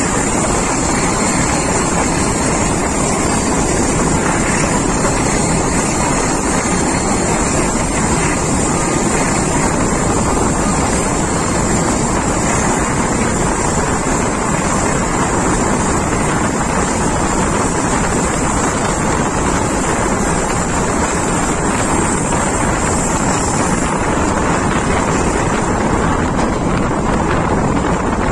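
Passenger train running at speed, a steady rumble from wheels and carriages, heard from an open carriage door with strong wind on the microphone.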